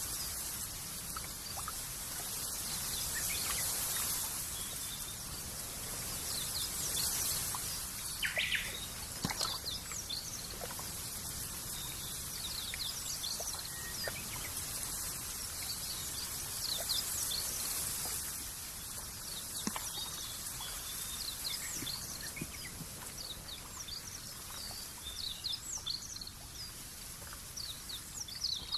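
Outdoor nature ambience: many small birds chirping over a steady background hiss.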